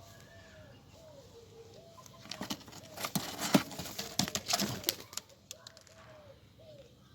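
A bird calling in short repeated notes, each rising and then holding level, interrupted in the middle for about three seconds by a loud burst of rustling and knocking.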